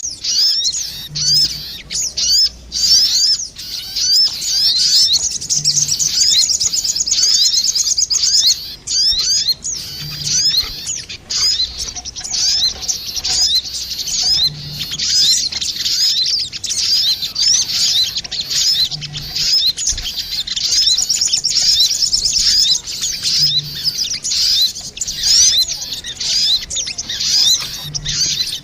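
Lure recording of sogon birds, female and male calling back and forth: dense, rapid high chirps and trills almost without a break, with only brief dips.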